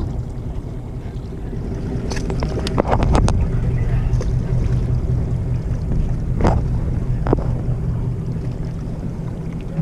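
Fishing boat engine running steadily with a low hum. A few short sharp clicks and knocks come about two to three seconds in and again around six and seven seconds.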